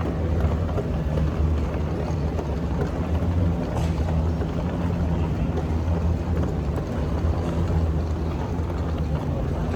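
Loud, steady engine drone with a low hum, heard from inside a vehicle.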